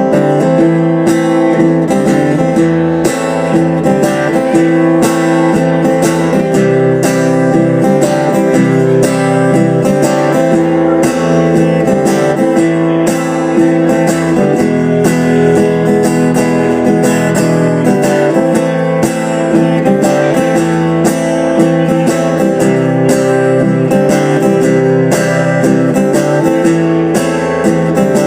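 Guitar strummed in a steady rhythm: the instrumental introduction of a song, before the vocals come in.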